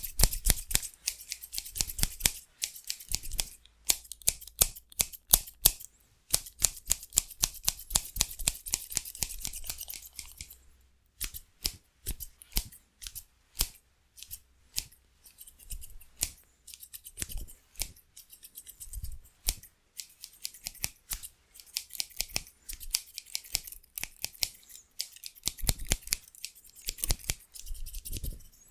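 Haircutting scissors snipping fast and hard, several sharp blade-closing clicks a second. The run breaks off briefly about eleven seconds in.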